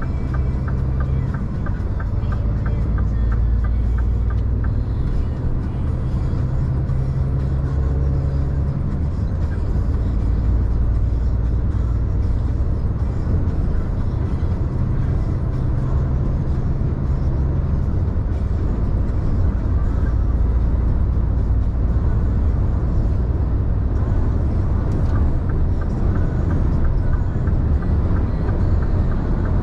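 Scania diesel engine running steadily with a deep drone, its note changing a few times.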